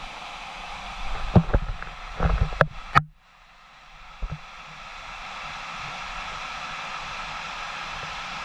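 Steady rush of a waterfall, with several knocks or bumps on the microphone in the first three seconds. About three seconds in the sound cuts out suddenly, then fades back up to the same steady rush.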